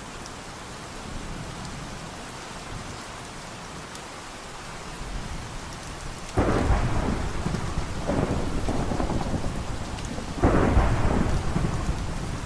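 Steady rain falling, with two rolls of thunder breaking in suddenly, one about six seconds in and a louder one about four seconds later, each rumbling and fading.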